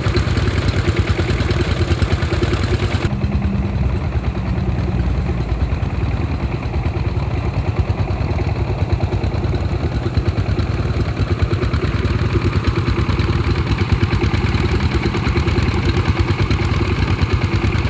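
Diesel irrigation-pump engines running steadily, with a dense rapid firing pulse. About three seconds in, the sound suddenly turns duller.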